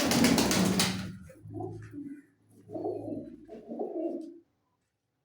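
Domestic pigeons cooing: three low, throaty coo phrases about a second apart. They follow a loud, rushing burst of noise lasting about a second at the start.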